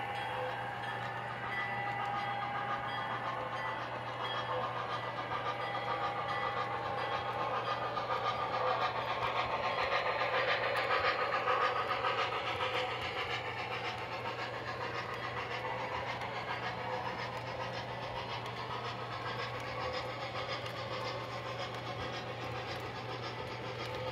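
O gauge model train running on the layout track, its wheels clattering on the rails. It grows louder as it passes close, loudest about halfway through, then fades a little, over a steady low hum.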